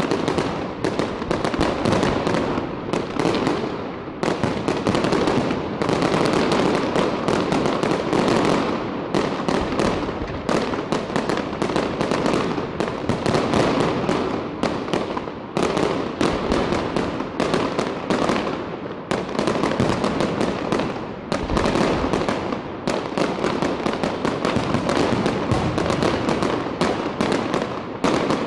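Fireworks display: a dense, continuous barrage of bangs and crackling bursts with no pauses.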